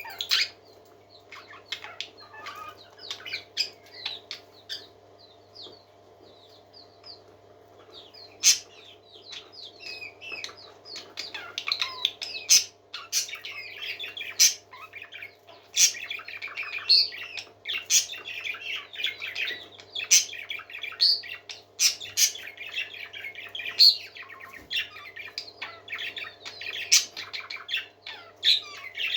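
Parakeets chattering, a mix of warbling chirps, clicks and short sharp calls: sparse for the first few seconds, then dense and nearly continuous from about ten seconds in. A steady low hum runs underneath.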